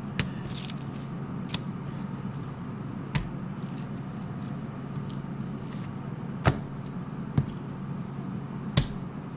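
A steady low hum from a kitchen appliance runs throughout, with six light clicks and taps as raw chicken cutlets laid on plastic wrap are handled and flipped for seasoning.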